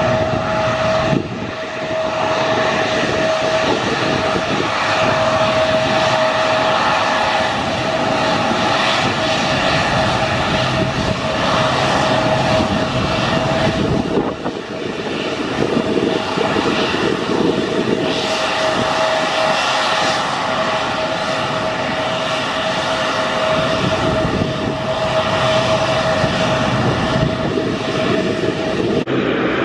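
Airliner engines running loud and steady: a single held whine over a broad rush of engine noise.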